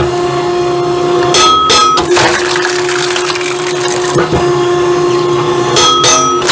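Firewood separator running with a steady machine hum while split camping firewood clatters and knocks through it, with two short high-pitched squeals, one about a second and a half in and one near the end.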